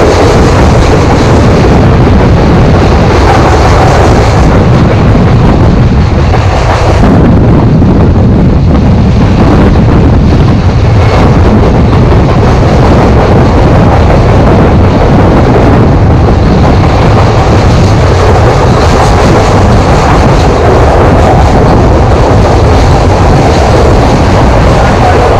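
Loud, steady running noise of a passenger train at speed, heard from an open coach window: wheels rumbling on the rails.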